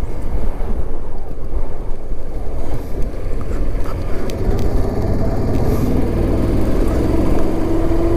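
Motorcycle engine running with road and wind noise while the bike is ridden, its pitch rising a little near the end.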